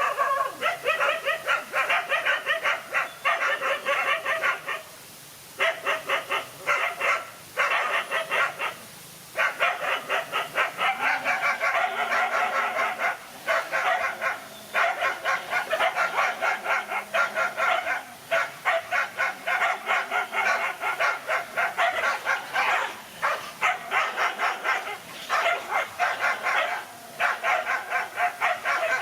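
Dogs barking rapidly and almost without pause, in quick volleys broken by a few short gaps, as in a confrontation between male dogs.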